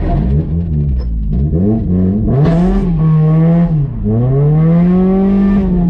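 Car engine revving hard on a drift track. It blips up and down quickly several times, then is held at high revs, dips briefly about four seconds in, and climbs back to hold high again.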